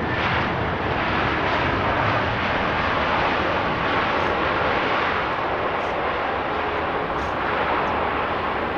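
Aircraft engine noise, a steady even rush that holds at the same level throughout.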